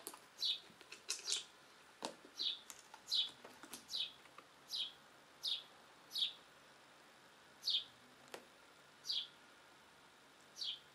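A small bird chirping: about a dozen short, high notes, each sliding downward, repeated every half second to a second and a half and thinning out toward the end. Two soft knocks come in between.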